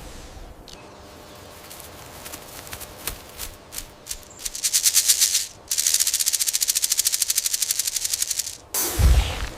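Crested porcupine rattling its tail quills. Scattered clicks build about halfway in to a rapid, even rattle, which stops abruptly. A low thump follows near the end.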